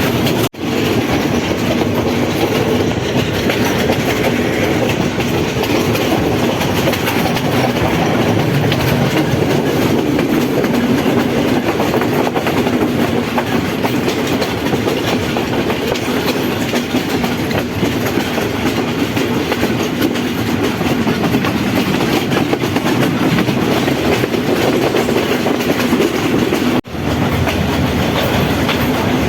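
Passenger train running along the rails, a steady rumble with the clickety-clack of wheels over rail joints. The sound drops out for an instant twice, about half a second in and near the end.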